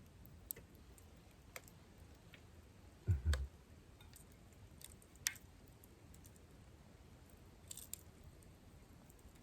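Wood fire crackling with scattered sharp pops, and a low double thump about three seconds in.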